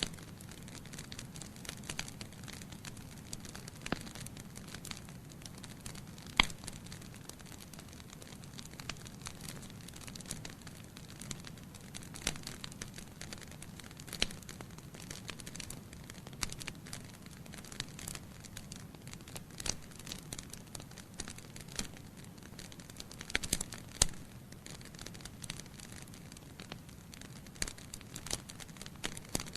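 Wood fire burning in a fireplace: a steady low rush of flame with irregular sharp crackles and pops from the burning logs, the loudest pops about six seconds in and near twenty-four seconds.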